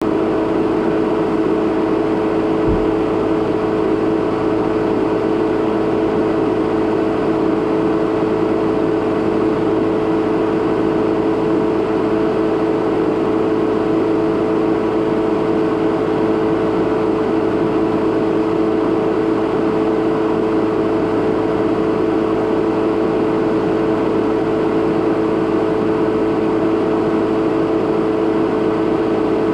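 2017 Jeep Renegade Trailhawk standing still and idling: a steady hum with a couple of constant tones that never changes in pitch or level.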